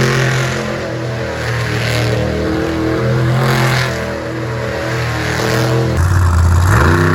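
A loud vehicle engine running at high revs, holding fairly steady, then dropping and revving back up near the end.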